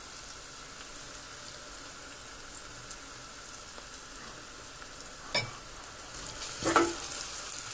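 Onions and ginger-garlic paste frying in oil in a stainless steel pot, with a steady sizzle. A single sharp knock comes about five seconds in, and there is a louder stir near the end.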